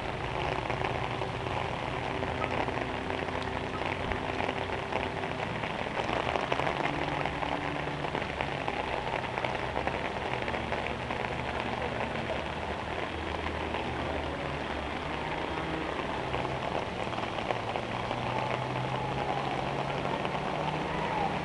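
Heavy rain pouring steadily on a flooded street: an even hiss of rain hitting water and pavement, with a faint low hum underneath.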